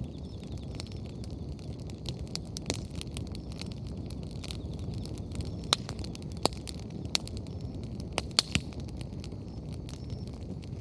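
Wood bonfire burning with a steady low rumble and constant crackling, freshly added firewood catching. Several louder sharp pops come in the middle.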